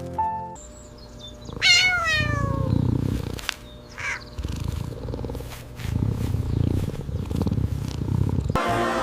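Domestic cat giving one meow that falls in pitch, then purring with a low, pulsing rumble for several seconds. Music plays briefly at the start and returns near the end.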